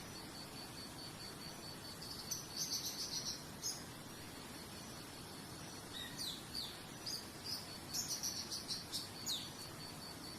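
Songbird calling in two bursts of quick chirps, some notes falling in pitch, over a steady high-pitched pulsing trill and soft background hiss.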